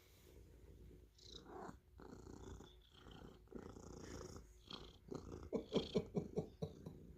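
Domestic cat purring close up, the purr coming in stretches with each breath, with a run of quicker, louder pulses about two thirds of the way through.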